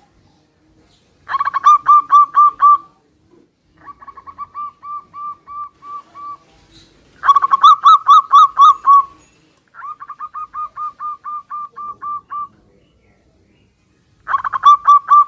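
Zebra doves (perkutut) cooing in turn. Bouts of quick, evenly repeated coo notes from a louder bird alternate with quieter bouts from a second one, five bouts in all, each lasting a couple of seconds.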